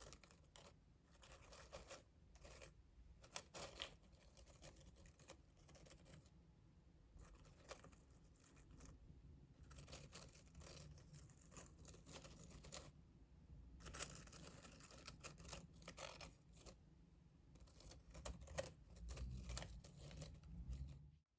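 Faint close-miked ASMR trigger sounds: irregular runs of soft scratching and rustling strokes on some object, coming in clusters with short gaps. The sound cuts off abruptly right at the end.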